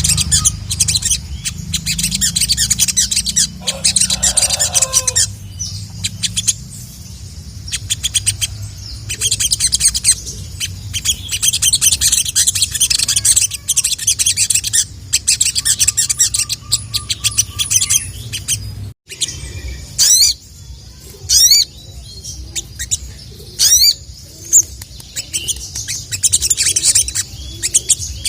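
Sogon (sogok ontong) sunbird calling a rapid, high chittering 'cuit cuit' trill, broken by a short gap a little past halfway and a few quick sliding whistles, then trilling again near the end. A low steady hum lies under the first two thirds.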